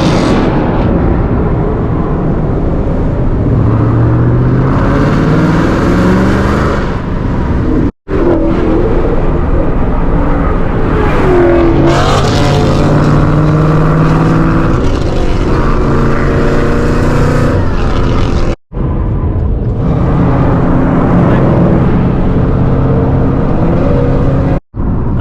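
Ford Mustang engine and exhaust pulling hard under acceleration, the pitch climbing and falling as it runs up through the revs and shifts. The sound breaks off abruptly twice, at about 8 and 18 seconds, and again near the end.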